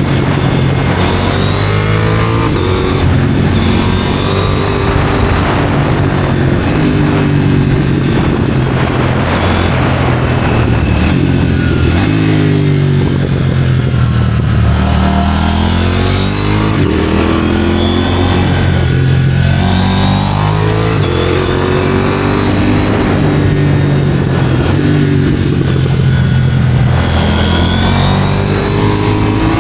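2023 KTM 790 Duke's parallel-twin engine breathing through an IXRACE aftermarket exhaust, ridden hard: the engine note climbs repeatedly under acceleration and drops back at each gear change or roll-off.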